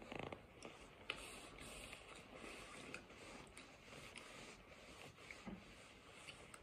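Faint close-up chewing and wet mouth sounds of tortellini being eaten, with small scattered clicks.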